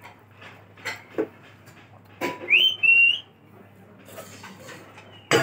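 A bird's loud whistled call about halfway through: a quick rising note, then a held note. Short scattered knocks come before and after it.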